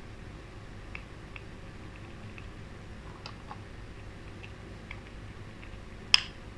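Faint plastic clicks and scrapes of a thin tool prying at a Toyota Camry key fob's inner plastic casing, then one sharp snap about six seconds in as the casing pops open.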